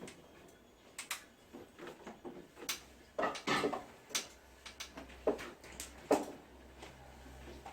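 Scattered light clicks and knocks of objects being handled, with a brief rustle about three seconds in and a faint low hum starting about halfway through.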